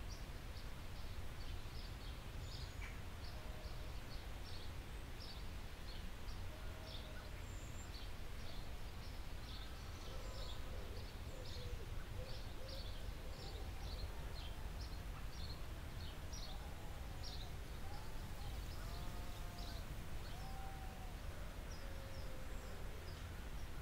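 Birds calling: rapid short high chirps over a steady low background noise, with short, lower cooing calls joining from about ten seconds in.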